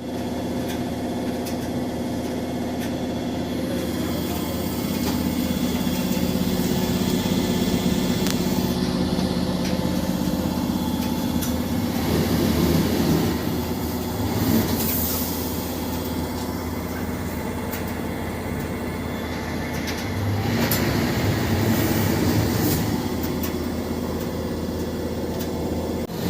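Speed Queen washing machine running: a steady mechanical hum and rumble with scattered clicks and rattles, swelling louder twice.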